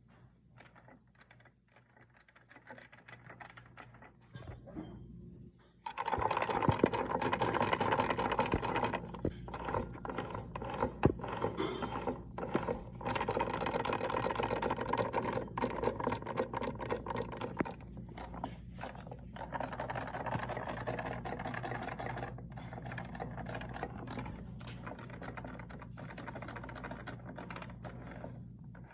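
Dodge Dart Rallye engine running with a rapid, steady knocking. It gets much louder about six seconds in.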